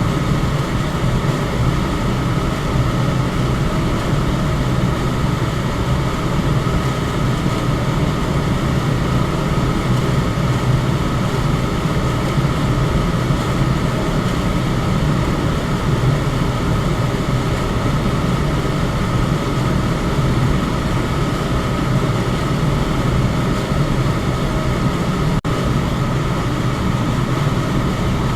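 Electric fan running steadily: an even rush of air over a low hum, with one split-second dip in level near the end.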